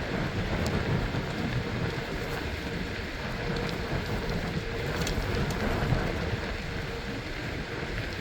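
Steady rushing wind on the microphone and tyre noise from a bicycle moving along, with faint scattered ticks.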